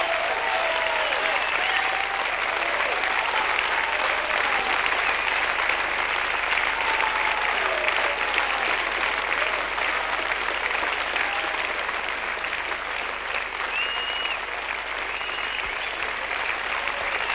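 Studio audience applauding steadily, with a few voices calling out among the clapping.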